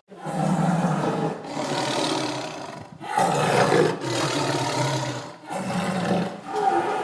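Tiger roaring in a run of about six rough calls, each a second or so long, with short breaks between them.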